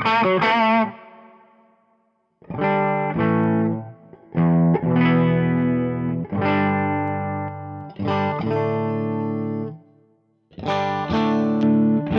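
Electric guitar through a Fractal Audio FM9 amp-modeler preset, with distortion and effects. It opens with a short phrase with wide vibrato, then plays sustained chords separated by brief pauses, ringing out near the end.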